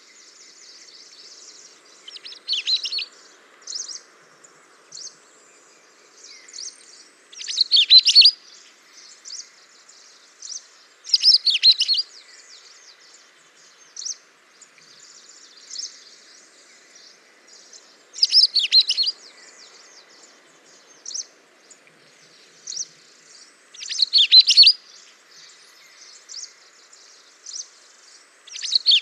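Songbirds chirping and singing: a steady scatter of soft, high chirps, with a louder burst of song every few seconds.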